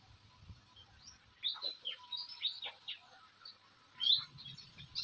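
Birds chirping: quick, short chirps in a cluster about a second and a half in, and again near the end.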